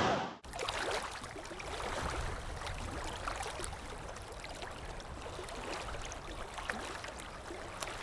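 Faint shoreline water sounds: small waves lapping, with many small splashes and a low rumble underneath.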